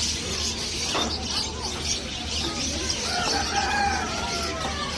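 Domestic birds calling, with one longer call about three seconds in over continual high chirping.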